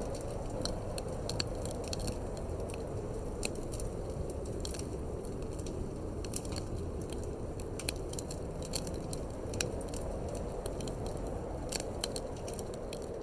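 Wood fire crackling in a fireplace, with many irregular sharp pops and snaps, over a steady low rushing of wind.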